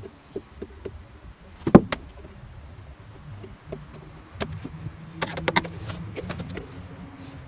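Clicks and knocks of a tool working on the small screws of an interior trim strip, with one loud knock about two seconds in. From about halfway a small electric motor hums steadily, with more clicks over it, as the stiff screw is worked.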